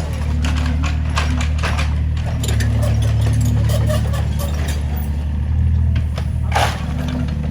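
Excavator diesel engine running steadily under the scattered knocks and clatter of house demolition, the engine a little louder from about two and a half seconds in. One louder knock comes near the end.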